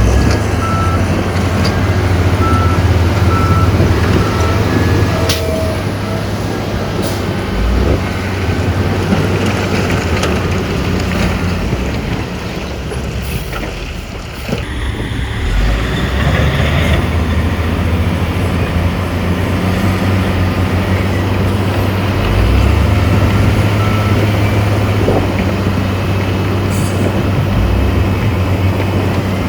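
Heavy diesel earthmoving machinery, a dump truck and bulldozer, running steadily under load. A reversing alarm gives a few short beeps in the first few seconds.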